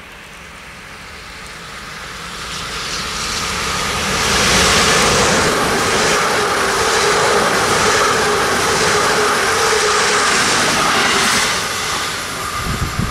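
SNCB AM08 (Siemens Desiro ML) electric multiple unit passing close at speed. The rush of wheels and air grows over about four seconds, holds loud with a steady whine underneath, and falls away about a second and a half before the end.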